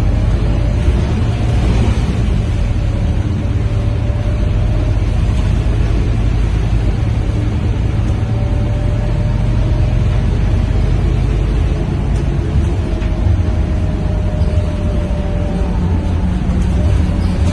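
Scania K230UB city bus's diesel engine running while the bus drives: a steady deep drone with a faint whine that rises a little near the start and again in the last few seconds.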